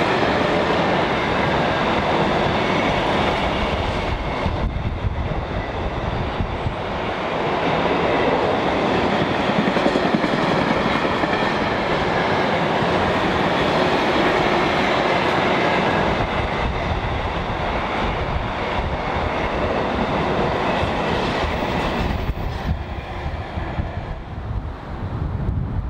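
Loaded container wagons of an intermodal freight train rolling past, a steady heavy rumble of wheels on the rails. About 22 seconds in the sound thins out and drops away as the end of the train goes by.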